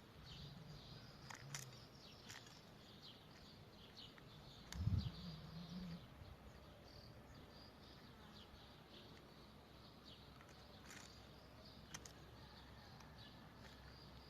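Faint, scattered short chirps of small caged birds, with a brief low thud about five seconds in.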